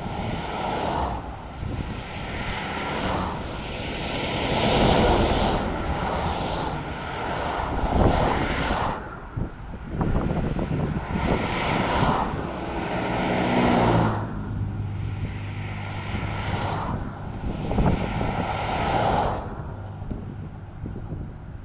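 Highway traffic passing close by the shoulder: a series of vehicles rushing past every two to four seconds, each swelling up and fading away, over a steady low engine hum.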